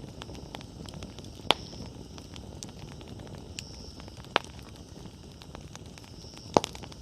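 Wood bonfire burning with a steady crackle of small snaps, broken by three loud pops from the firewood: about a second and a half in, midway, and near the end.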